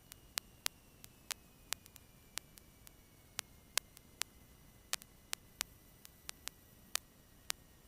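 Quiet aircraft radio and intercom audio line between transmissions, broken by irregular sharp clicks of static, about three a second, with a faint thin tone slowly falling in pitch.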